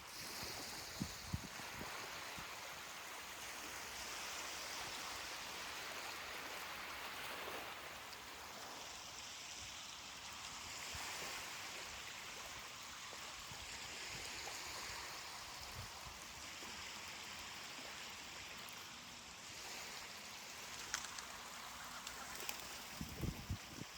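Ocean waves washing on a beach, a steady hiss that swells and eases every few seconds. A few brief low thumps come about a second in and again near the end.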